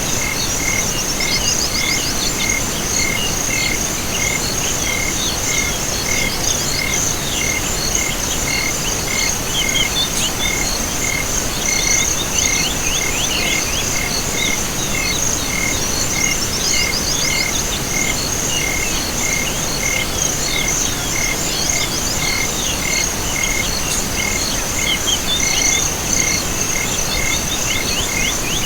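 Chorus of crickets and frogs: a steady high trill and an evenly repeating chirp about three times a second, with clusters of quick frog calls coming and going every few seconds.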